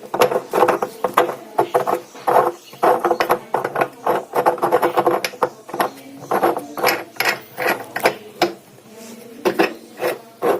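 Nut being threaded and tightened onto a washing machine drum's shaft: a run of irregular mechanical clicks and rattles with short pauses.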